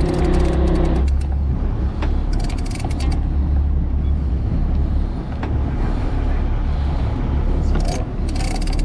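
Fishing boat's engine running with a steady low rumble. A higher hum on top stops about a second in, and a few scattered clicks follow.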